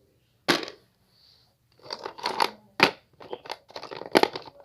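Small hard plastic animal figurines being handled, with a sharp knock as one is set down and then a busy run of clicks and clatters as figures knock against each other and the surface.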